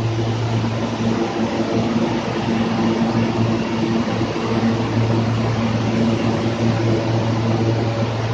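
R160 New York subway train running, a steady hum with a low drone and a few higher fixed tones over a constant hiss.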